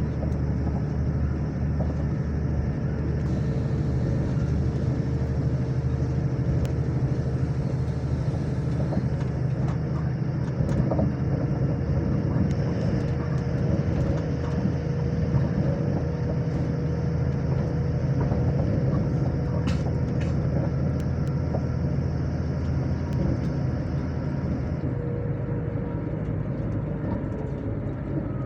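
Inside a moving passenger train: a steady low rumble of the wheels running on the track, with a constant hum that sags slightly in pitch and fades near the end, and a few faint clicks.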